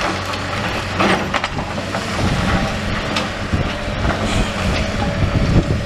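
Demolition digger's diesel engine running steadily, with scattered knocks and clatter of bricks and rubble being scooped.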